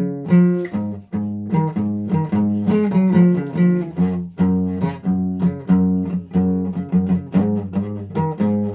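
Guitar played by plucking or picking individual notes at a steady pace, about two to three notes a second, over a recurring low note.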